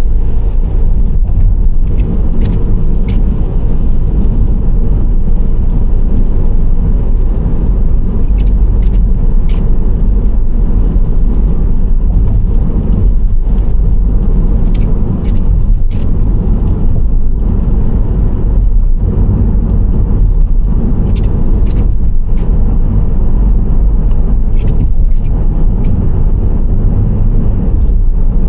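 Steady low road and engine rumble of a Nissan Serena C25 minivan on the move. Short, faint high ticks come in small clusters every few seconds.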